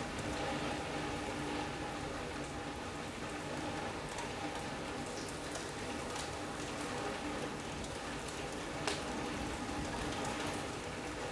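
Steady rain from a passing squall line falling on a sunroom's roof and windows, with scattered individual drop ticks and one sharper tap about nine seconds in.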